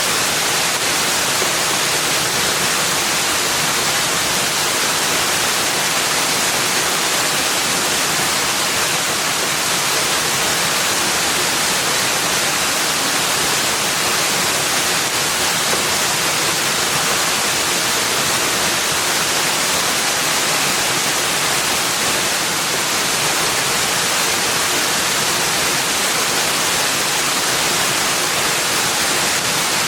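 Steady, unbroken rushing of water, even in level, with no bird calls or other distinct events.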